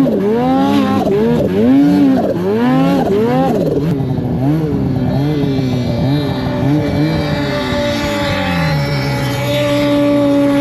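Snowmobile engine revving in quick repeated throttle surges, its pitch rising and falling several times in the first few seconds. The surges then get smaller, and near the end the pitch drops and settles to a steady note.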